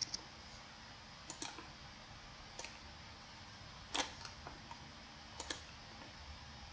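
Scattered clicks of a computer mouse, some in quick pairs like double-clicks, over a faint steady hiss.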